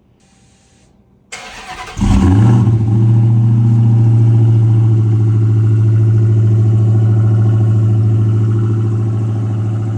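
Supercharged 6.2-litre Hemi V8 of a 2021 Dodge Charger Hellcat Widebody being started: the starter cranks briefly, the engine catches about two seconds in with a short rev flare, then settles into a loud, steady idle.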